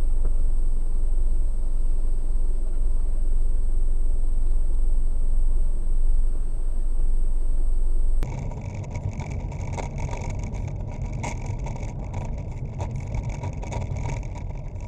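Steady car engine and road rumble heard from inside a moving vehicle. About eight seconds in it changes abruptly to a lighter, hissier road noise.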